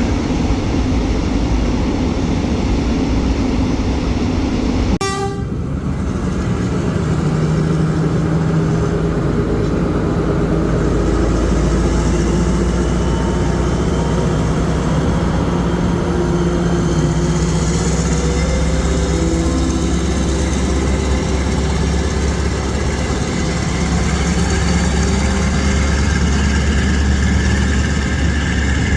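Alsthom diesel-electric locomotive and its train running: a steady, loud low engine drone with held, shifting tones, and an abrupt change in the sound about five seconds in.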